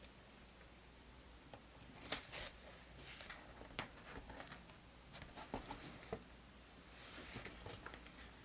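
Diary pages and stationery being handled at a desk: scattered light clicks and short paper rustles, the sharpest click about two seconds in.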